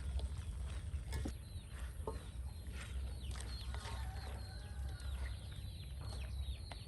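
Bird calls: a dense run of many short, quick falling chirps starting about a second in, with a few sharp knocks before them and a steady low rumble underneath.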